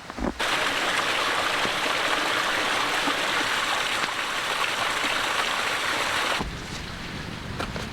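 Small creek's water running steadily. It cuts in about half a second in and cuts off sharply a little after six seconds, leaving a quieter background with a few light clicks.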